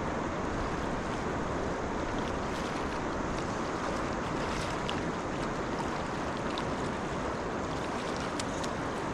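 Steady rush of flowing river water, with a few faint, sharp ticks in the second half.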